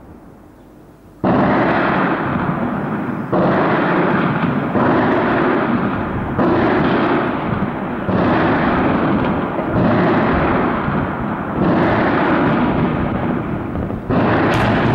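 A run of eight heavy blasts from shelling, starting about a second in and coming every one and a half to two seconds, each with a long rolling echo that runs into the next.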